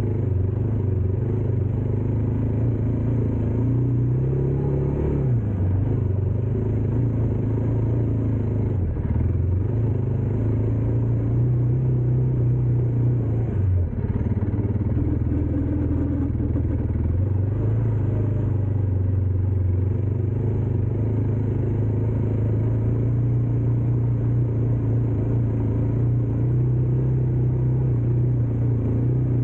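Dirt bike engine running steadily under way. Its pitch dips briefly and comes back up a few times as the throttle eases and reopens.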